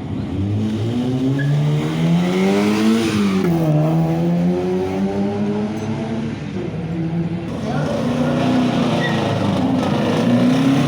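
Rally car engine revving hard: it climbs to a peak about three seconds in, drops back, runs steadier, then climbs again near the end.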